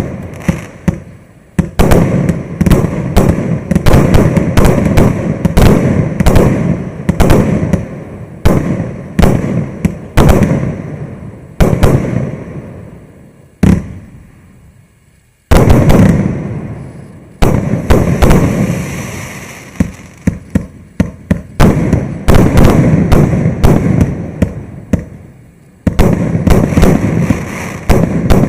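Maxsem Twister MC112 120-shot firework cake (20–30 mm calibre) firing a rapid string of shots, several a second, each bang dying away. About halfway through the firing pauses and fades for two seconds or so, then starts again with another dense run of shots.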